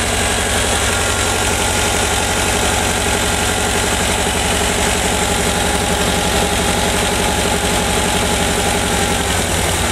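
1985 VW Vanagon's 1.9-litre water-cooled flat-four (Wasserboxer) idling steadily, its vacuum advance disconnected and plugged, while the distributor is turned to retard ignition timing that was set too far advanced. The idle slows a little as the timing is pulled back toward the mark.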